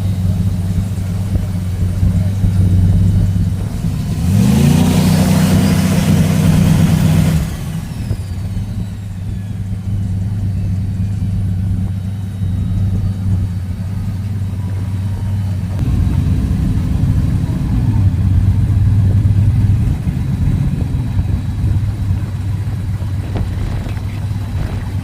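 Car engine idling with a low, steady drone, revved up about four seconds in and held high for about three seconds before dropping back to idle.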